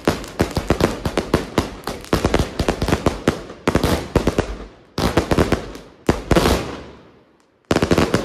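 Consumer fireworks from a Lesli Fireworks Showbag going off: fast runs of sharp cracks and bangs, several a second, broken by short pauses. A couple of louder bursts just after the middle trail off in a hiss, and after a brief lull a last quick run of cracks comes near the end.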